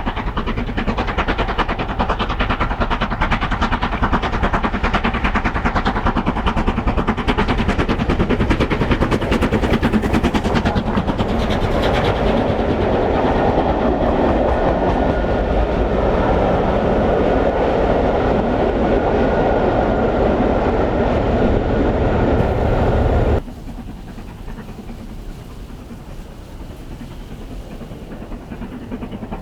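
A steam-hauled passenger train, the LMS Black 5 locomotive and its carriages, running past close by with a dense, fast clatter that grows louder toward the middle. It cuts off abruptly about three-quarters of the way through, leaving a much quieter steady rumble.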